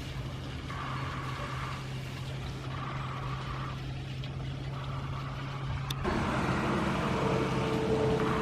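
A steady motor hum with a higher tone that sounds and stops about every second and a half, like a machine's warning beeper. About six seconds in, it gives way suddenly to a louder engine-like running sound.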